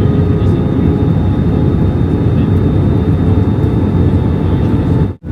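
Steady cabin noise of an Airbus A320 in flight, heard from inside the passenger cabin: a dense low rumble with a few faint steady tones over it. It drops out suddenly for an instant just before the end.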